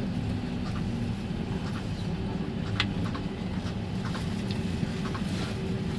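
Steady low hum of an Airbus A350-900's cabin at the gate, with its air system running, and a few faint clicks and knocks.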